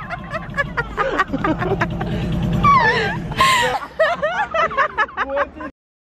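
A car engine running close by in street traffic, loudest in the middle, with voices calling out and talking over it. The sound cuts off suddenly near the end.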